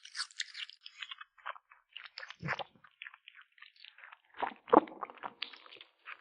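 A kitten chewing and crunching food with its teeth: a quick, irregular run of small crunches, with two louder, deeper crunches, one about halfway and one near the end.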